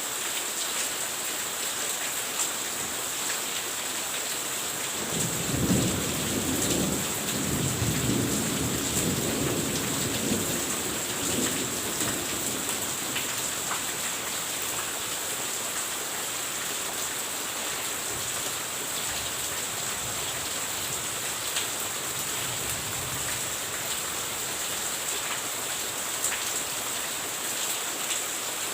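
Steady rain falling, with a low roll of thunder that breaks in about five seconds in and rumbles away over the next several seconds.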